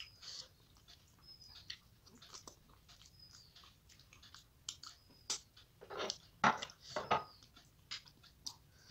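Close-miked chewing and mouth sounds of someone eating rice and fish head curry by hand: irregular wet smacks and small crunches, loudest around six to seven seconds in.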